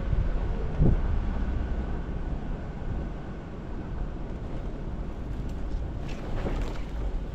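Jeep Wrangler Rubicon crawling along an off-road trail: a steady low rumble of engine and drivetrain. A few brief knocks or clatters come about a second in and again around six to seven seconds in.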